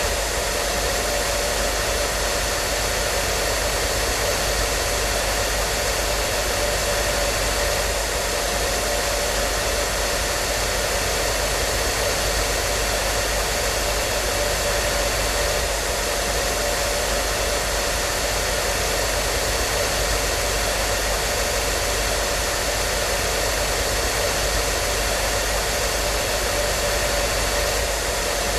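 Hair dryer running continuously: a steady blowing rush of air with a faint motor whine, unchanging throughout.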